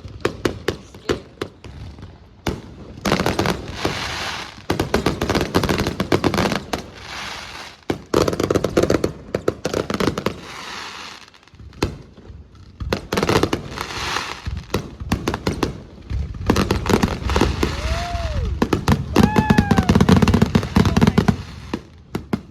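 Aerial fireworks going off in rapid waves of dense crackling and sharp bangs, with short lulls between volleys.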